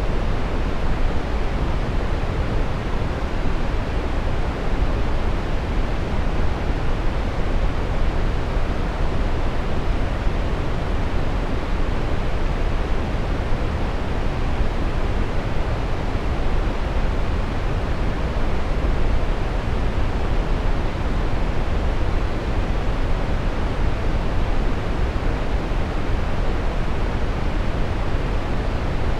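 Steady brown noise: an even, deep rumbling hiss, strongest in the bass and falling away toward the treble, unchanging throughout.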